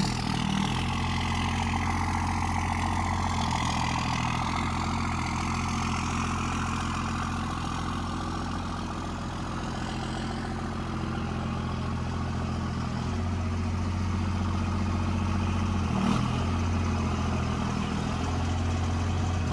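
Truck engine idling steadily, its low note shifting slightly a few times.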